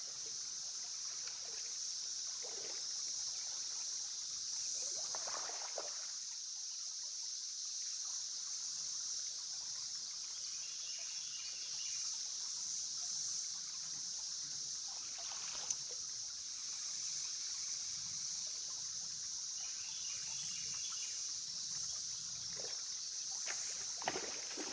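A steady chorus of cicadas buzzing at a high pitch without a break, over the trickle of river water.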